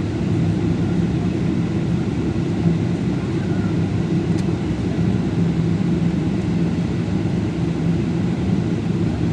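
Steady cabin noise aboard a Boeing 777 jet airliner: an even, low drone of the engines and air.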